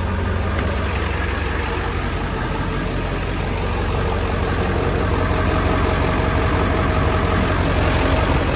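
Ford F-350 diesel truck engine running steadily, with a faint steady whine coming in about halfway through.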